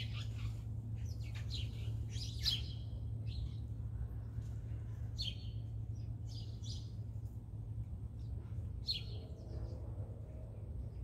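Short, high bird calls scattered irregularly, several in the first three seconds and a few more later, over a steady low hum.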